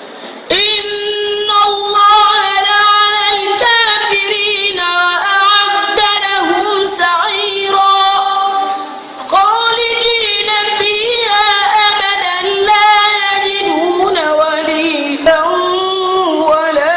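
A high-pitched voice in melodic Quran recitation (tajwid), holding long drawn-out notes with ornamental wavering, with a short pause for breath about 9 s in.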